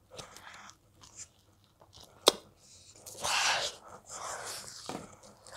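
Chewing of a mouthful of hot dog in a soft bun, heard close up through a headset microphone: soft, wet mouth noises in bursts, with one sharp click a little over two seconds in.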